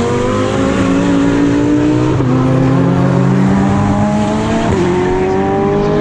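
GT3 race car engine accelerating hard, its pitch climbing steadily and dropping sharply at upshifts about two seconds and nearly five seconds in.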